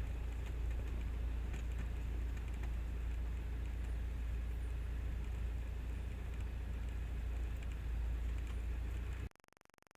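Cessna 172M's four-cylinder Lycoming engine idling steadily in the cockpit as the plane taxis after landing, a low steady drone. It cuts off abruptly near the end.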